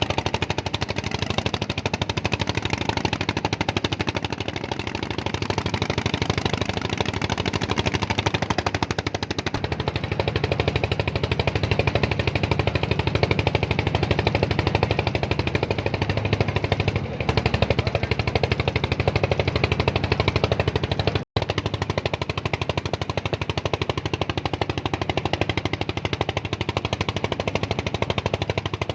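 A small engine running steadily with a rapid, even chugging beat. The sound cuts out for an instant about twenty-one seconds in.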